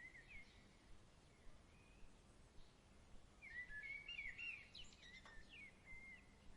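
Faint songbird warbling in quick, chirping phrases: a short phrase at the start, then a busier run of notes from about halfway through, over a soft steady background hiss. A single small click comes near the end.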